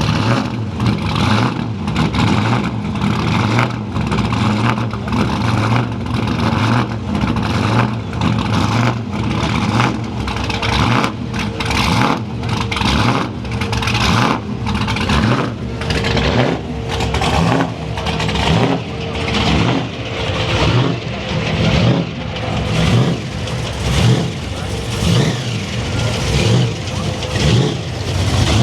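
Car engines running and revving, loud throughout.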